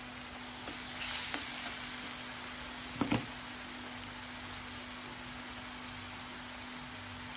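Chopped onions and spices frying in a kadai: a steady sizzle that swells as a steel ladle stirs them, with a couple of sharp clinks of the ladle against the pan about three seconds in.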